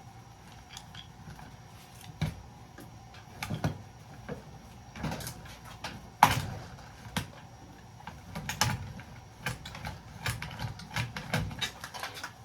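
Hand tools clicking and knocking against the metal parts of a breaker box as it is taken apart, in scattered irregular strikes, the loudest about six seconds in.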